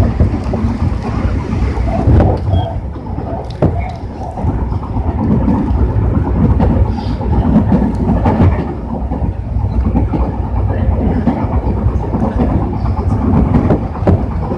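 Tobu 60000 series electric train running, heard from inside the car: a steady rumble of wheels and running gear on the track, with scattered clicks of wheels over rail joints.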